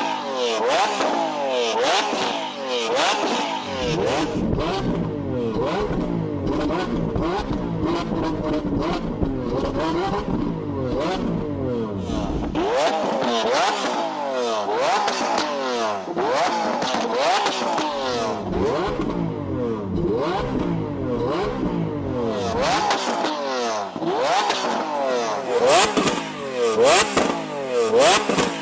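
Lamborghini Aventador V12 revved hard over and over, each blip rising in pitch and falling back, with sharp pops and bangs from the exhaust as it shoots flames.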